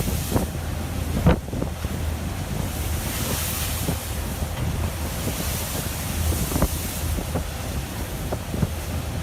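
Storm wind buffeting the microphone over heavy surf: a steady low rumble and hiss with scattered knocks, the loudest about a second in.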